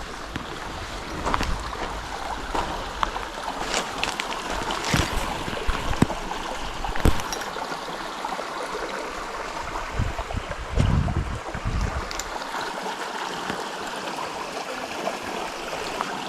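Running water, a steady rushing like a stream or beck, with scattered small clicks and knocks over it.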